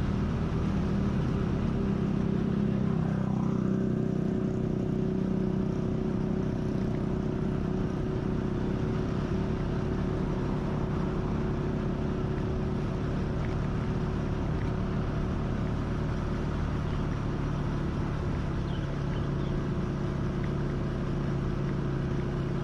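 Motor vehicle engine running steadily while riding along, with road and wind noise; the engine note shifts about three to four seconds in.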